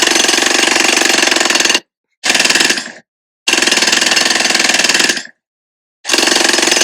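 Jackhammer pounding in rapid, continuous strikes, in four runs of about one to two seconds each separated by brief stops.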